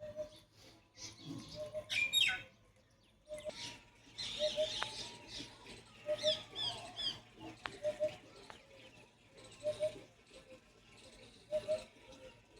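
Pet parrot chirping and whistling in short calls, with a quick run of falling chirps about six seconds in.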